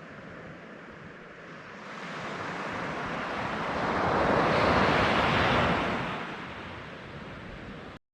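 Ocean surf: a wave builds for a couple of seconds, breaks and washes in loudest about halfway through, then dies away, ending in a sudden cut.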